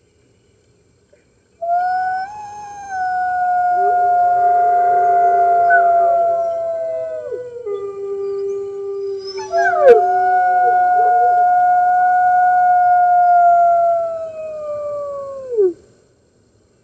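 Wolves howling in chorus: long, held howls at different pitches overlap, starting about a second and a half in. A fresh howl begins with a sharp click about ten seconds in, and the last howl slides down in pitch and stops near the end.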